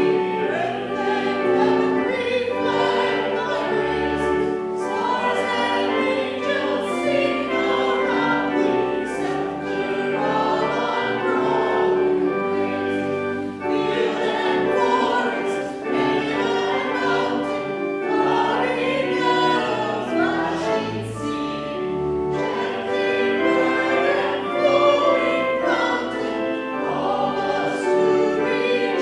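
Choral music: a choir singing held, sustained lines over instrumental accompaniment.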